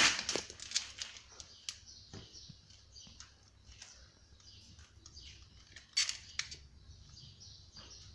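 Scattered clicks and light scrapes of hand work on a gas boiler, with the sharpest clicks at the start and about six seconds in, and short high chirps between them.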